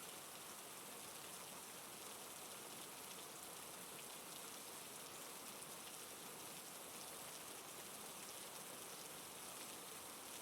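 Steady, faint rain falling, a continuous hiss with fine pattering of drops.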